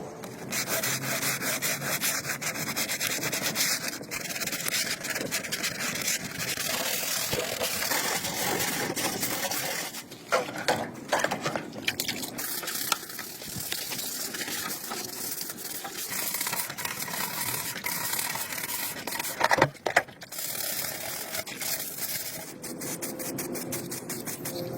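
Abrasive rubbing and scraping on a part being cleaned up, in continuous quick strokes, with a few sharper, louder scrapes about ten seconds in and again near twenty seconds.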